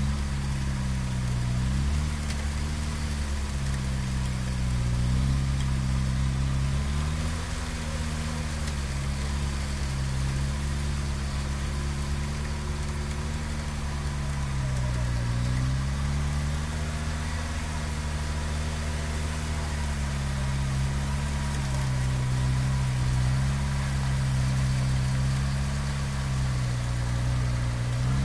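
Lada Niva's engine running at low revs under load in deep mud, its pitch rising and falling slowly as the throttle is eased on and off.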